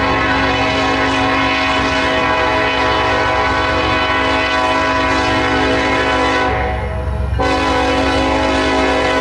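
Locomotive air horn sounding a long chord of several steady tones over the low rumble of the train, breaking off briefly about seven seconds in before it blows again.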